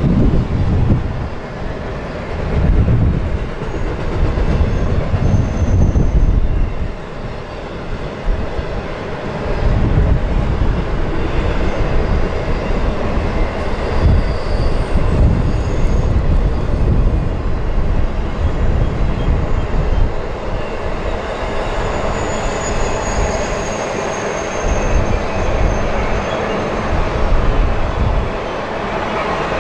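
CSX intermodal freight train's container cars rolling across a steel girder bridge, a loud continuous rumble of wheels on rail. A faint high squeal comes through about two-thirds of the way in.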